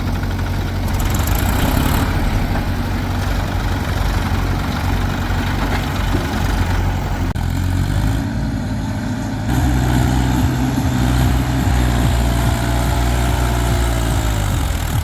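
Heavy diesel engine running steadily. About ten seconds in its note drops and gets louder, and near the end a faint whine bends downward.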